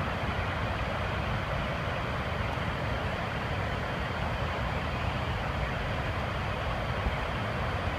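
Steady rushing of a waterfall in flood: a dense, unbroken roar of falling water with heavy low rumble.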